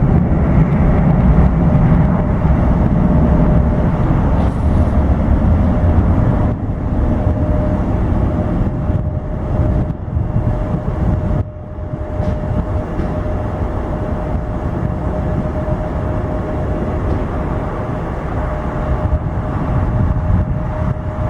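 Jet airliner engines running: a loud low rumble with a steady whine, easing somewhat about halfway through.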